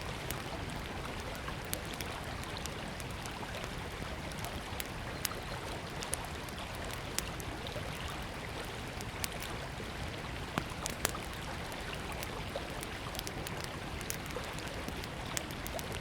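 Steady rush of river water, with a small wood fire crackling and giving off sharp pops now and then; the strongest pops come about ten and eleven seconds in.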